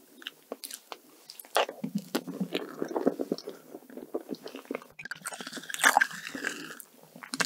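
Close-miked eating sounds of a soft, creamy tiramisu: wet chewing and lip smacking with many small mouth clicks, and a spoon scraping the inside of the dessert cup.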